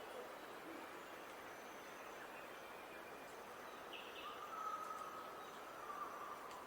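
Outdoor birdsong ambience: a few short bird chirps and one long call held on a single note for about two seconds, over a steady background hiss.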